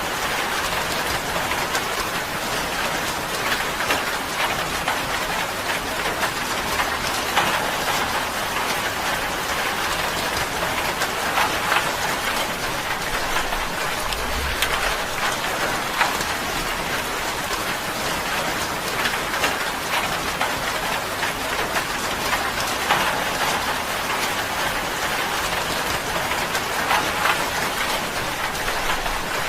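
Steady rain falling on a tin roof, a dense patter of drops hitting the metal.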